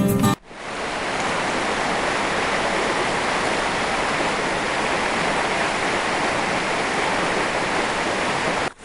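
Steady rush of water flowing through a gold sluice box, breaking off briefly near the end.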